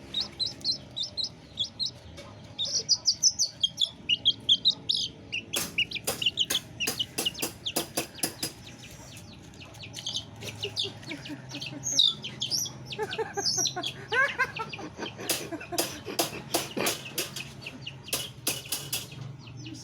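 Chickens: rapid high-pitched peeping and clucking, with a run of sharp clicks or knocks from about six seconds in.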